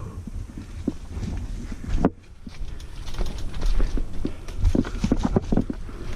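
Mountain bike clattering over a rough, rocky trail: irregular knocks and rattles of the frame and chain, bunched thickly in the second half, over a low wind rumble on the camera.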